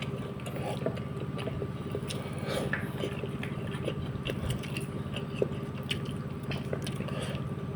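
Close-miked mukbang eating sounds: wet chewing and small smacking, clicking mouth noises while eating a soft patin catfish head, over a steady low electrical hum.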